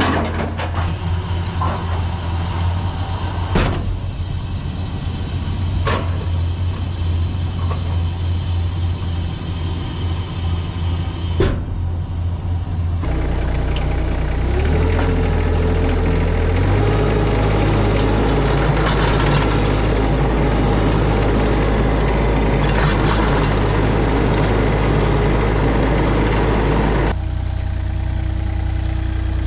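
A vehicle engine running steadily with a few sharp knocks. About 13 seconds in, the engine note changes and rises over the next few seconds, then holds steady. It drops back near the end.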